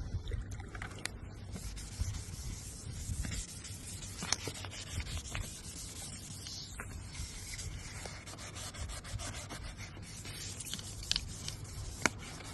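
Sandpaper being rubbed over the painted bumper in continuous rough strokes, flatting the paint and primer, with a few sharper scrapes and clicks along the way.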